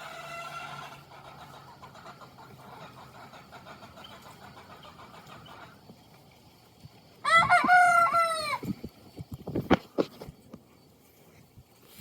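A young rooster crowing once, a loud call of about a second and a half, about seven seconds in. A few short sharp sounds follow.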